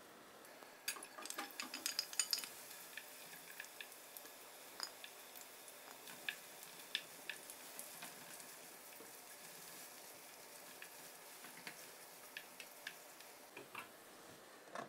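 Garlic and sliced red onion frying gently in olive oil in a nonstick pan: a faint sizzle with scattered pops and crackles, with a dense burst of crackling about a second in, and a wooden spoon stirring the onions.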